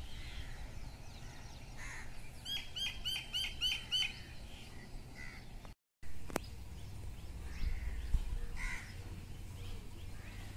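Songbird calling: a quick run of about six repeated ringing notes, about four a second, followed later by a few scattered single calls.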